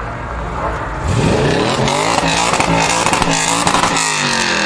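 A high-performance car engine revving hard: its pitch climbs steeply about a second in, stays high and loud for about three seconds, then drops away near the end.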